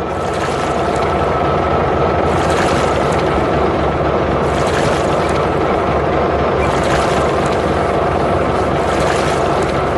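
A boat's engine runs steadily as a vessel moves along a river, over a steady rush of water. A hiss of water swells and fades about every two seconds.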